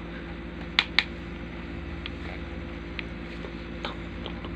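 Steady low background hum, like a room fan or appliance running, with two light clicks just under a second in and a few fainter ticks later.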